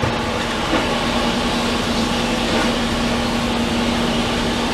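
Demolition excavator's diesel engine running steadily on site: a continuous drone at one constant pitch over a rumbling noise.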